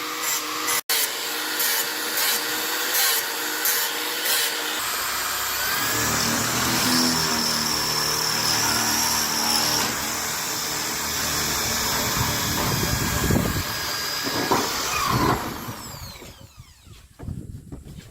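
Power drill running steadily for a long stretch, with a change in its note about a third of the way in, then stopping near the end.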